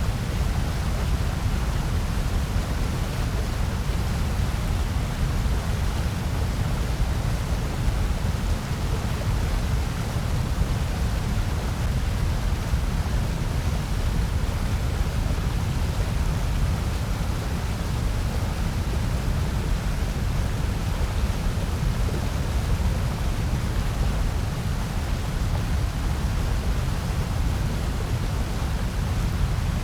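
Steady generated noise of the white-noise kind, an even, unchanging hiss with most of its weight in the low end.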